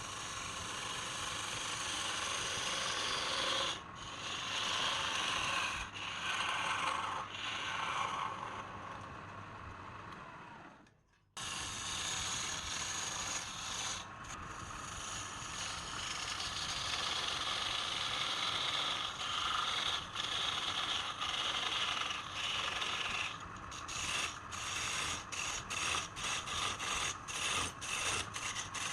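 A tool scraping and cutting wood, a continuous rasping scrape that breaks off abruptly about eleven seconds in. In the last few seconds it turns to quick, even back-and-forth strokes, about three a second.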